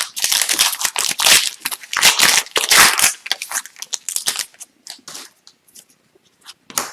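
Plastic trading-card pack wrapper crinkling and crunching in the hands, thinning after about three seconds to scattered light flicks and clicks of cards being handled.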